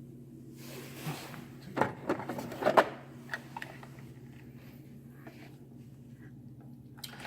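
A few sharp plastic clicks and knocks as the Miele coffee maker's parts are handled, loudest between two and three seconds in, over a steady low hum.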